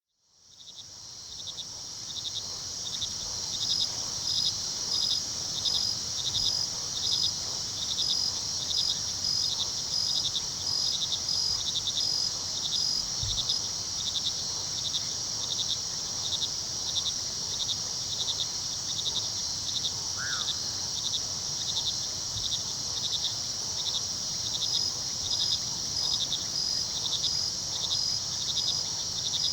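Night chorus of crickets: a steady high trill with a regular pulsing chirp about two times a second, fading in at the start.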